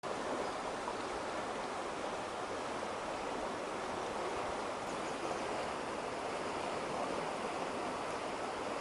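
Mountain stream running after rain, a steady rush of water without a break.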